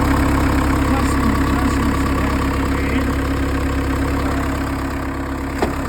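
Case 90XT skid steer's diesel engine idling steadily, with a newly fitted turbocharger and no exhaust pipe fitted. A single short click sounds near the end.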